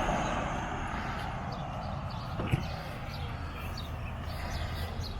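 Birds chirping in short, repeated high notes over a steady low outdoor rumble, with one brief knock about two and a half seconds in.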